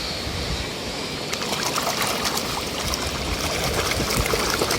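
Water trickling and splashing as a muddy toy car is rinsed, with small scattered splashes over a steady flow.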